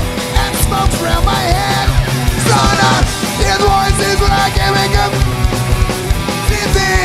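Punk rock band playing live: drums and electric guitars at full volume, with no singing.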